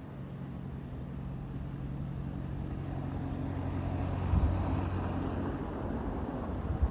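A motor vehicle's engine running with a steady low hum that grows louder over the first few seconds, with a couple of low thumps.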